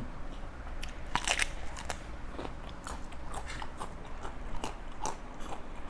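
A person biting and chewing crunchy food close to the microphone while eating spicy Thai pounded seafood salad (tam pa thale): a series of short, crisp crunches, the loudest a little over a second in.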